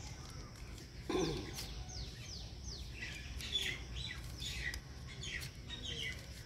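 Small birds chirping in the background: a quick run of about five notes, each falling in pitch, starting about a second and a half in, then scattered chirps. A brief lower call sounds about a second in.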